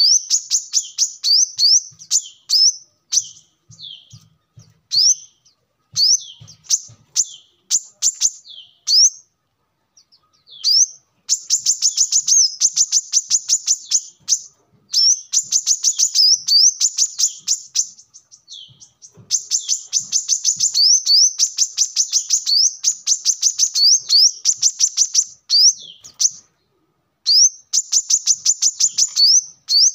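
Brown-throated sunbird (kolibri kelapa) singing: fast runs of high, thin, rising chirps, each run lasting a few seconds, with short pauses between them.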